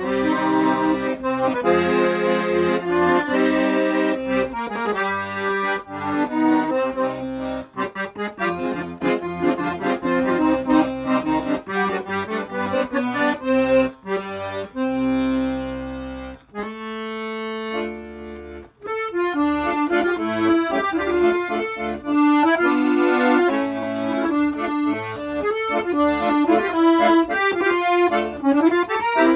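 Weltmeister half-size 40-bass piano accordion being played: a tune on the treble keys over bass and chord accompaniment, with one long held chord about halfway through before the tune picks up again.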